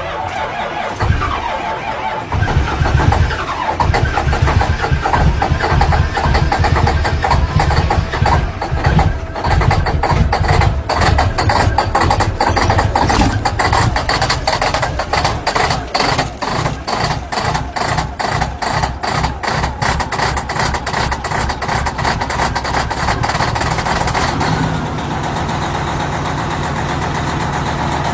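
Truck engine starting, then running loudly and unevenly with rapid irregular pulsing for about twenty seconds before settling into a steadier idle near the end.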